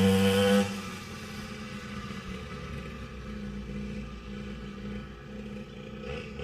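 Small two-stroke engine of a cheap dirt bike running at a steady high speed, then suddenly dropping to a much quieter, rougher running under a second in.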